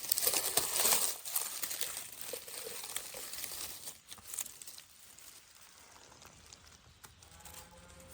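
Dry forest litter of leaves and twigs crackling and rustling as it is stepped through or brushed aside. It is loudest in the first second and dies down after about four seconds.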